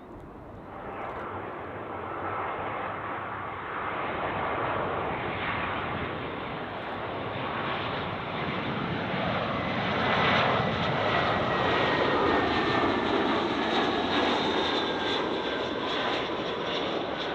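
Airliner's jet engines passing low on final approach to land: the engine noise swells from about a second in to its loudest around ten seconds, with a high whine that slowly falls in pitch as it goes by.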